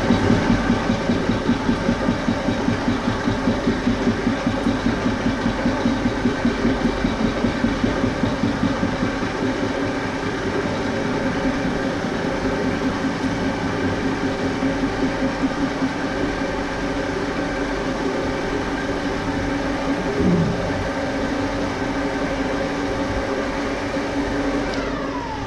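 Metal lathe running with a fly cutter in the spindle, taking interrupted cuts across metal stock clamped in the tool post: a steady machine sound with a regular beat as the cutter strikes on each turn, evening out about halfway through. A falling tone near the end as the lathe winds down.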